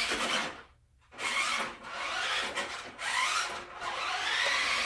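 Brushed electric motor of an RC truck (Badzilla/Trak Attack motor on a 3S lipo) running in bursts, its whine rising and falling, with gear and tyre noise. It stops briefly about a second in and dips a few more times.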